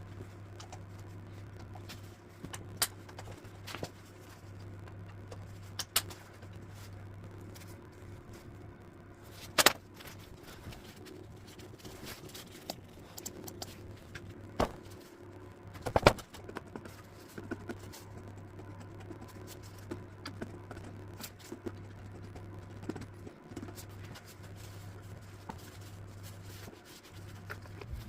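Scattered sharp clicks and knocks of hand tools and parts being handled during an engine teardown, the loudest about ten and sixteen seconds in, over a steady low hum.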